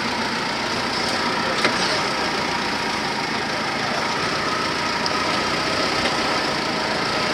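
Off-road Jeep Cherokee's engine running steadily at low revs as it crawls over rocks in a creek bed, with a few sharp knocks.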